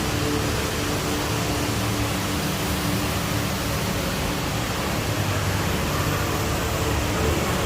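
Steady, even rushing noise, with faint held tones underneath.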